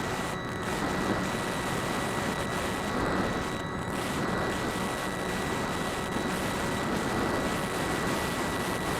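Steady rush of wind over a small onboard camera microphone on a radio-controlled FPV aircraft in flight, with a thin, constant whine from its electric motor and propeller.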